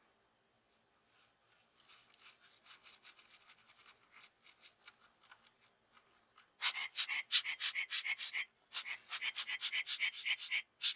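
Rapid back-and-forth rubbing strokes on a small hard part, about five a second, a hiss-like rasp. They start faint and become much louder about two-thirds of the way in, pausing briefly twice.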